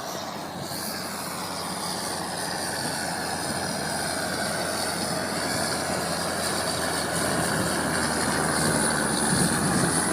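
John Deere tractor's engine running steadily, growing gradually louder.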